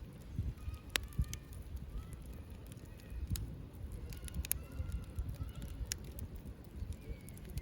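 Wood fire crackling, with sharp pops and snaps at irregular intervals over a low rumble, and a few short faint whistling tones.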